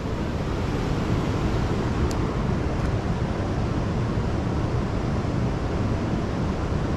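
Steady rush of a waterfall's water, heaviest in the low end, with wind on the microphone.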